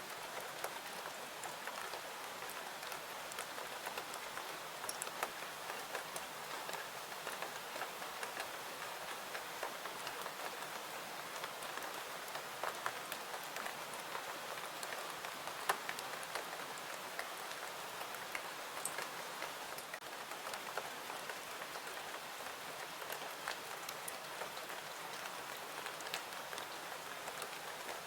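Steady rain falling: an even hiss with many small, scattered drop taps.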